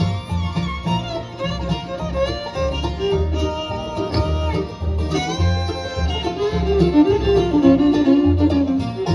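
A bluegrass band playing an instrumental break, with fiddle lead over banjo and guitar and a steady alternating bass line.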